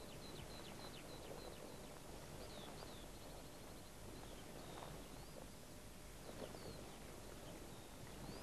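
Faint bird calls: short high chirps and slurred whistles, repeated every second or so, over a steady background hiss.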